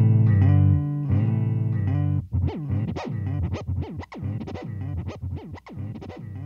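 PRS 513 electric guitar played through a Boss DD-7 digital delay pedal into a Fender Deluxe Reverb amp with its reverb off. Held chords ring for about two seconds, then a quick run of short picked notes follows with delay repeats trailing behind them.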